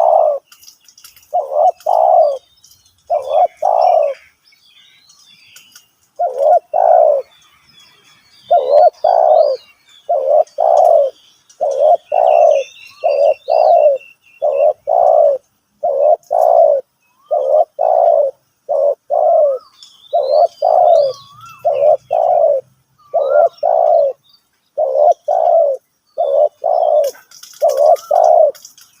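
Spotted dove cooing over and over, its short coos mostly coming in close pairs with only brief gaps, and one longer pause about four seconds in. Small birds chirp faintly in the background.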